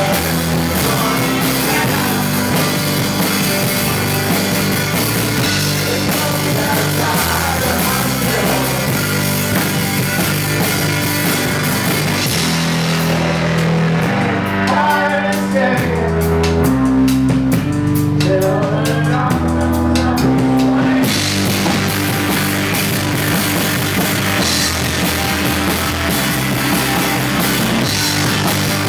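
Live rock band playing an instrumental stretch with drum kit and guitars. About halfway in, the high cymbal wash drops out for roughly eight seconds while a low line steps through notes, then the full band comes back in.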